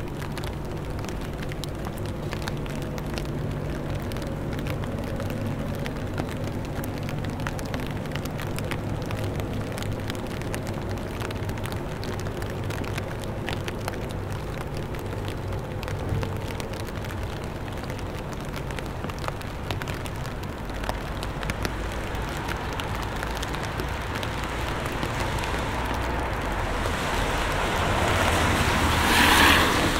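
Steady rain falling on the street, heard close up as a dense patter of drops over a constant hiss. A low steady hum runs under it through the first half, and near the end a louder hiss swells up and falls away.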